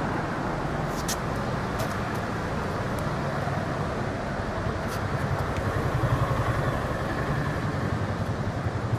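Ferrari F430's 4.3-litre V8 idling: a steady low engine sound that swells slightly for a second or two past the middle, with a few faint ticks.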